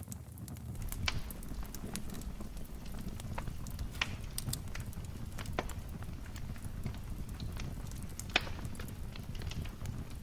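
Wood fire crackling, with irregular sharp pops and snaps over a low, steady rumble of the flames; a few pops stand out louder, the loudest near the end.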